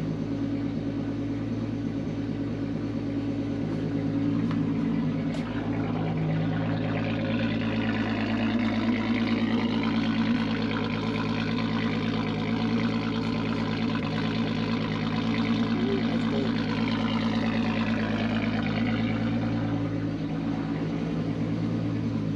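Turbocharged 12-valve VR6 engine in a Mk2 Volkswagen Jetta idling steadily while warming up after a cold start.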